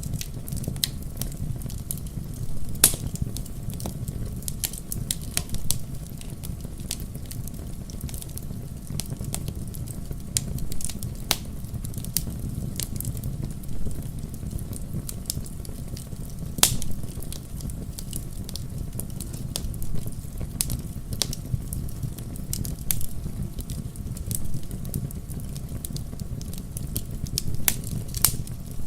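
Wood fire burning in a fireplace: a steady low rumble of flame under constant small crackles, with a few louder sharp pops scattered through.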